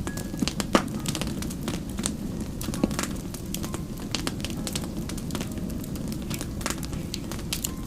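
Wood fire crackling: frequent irregular sharp pops and snaps over a steady low rumble, with one louder pop about a second in.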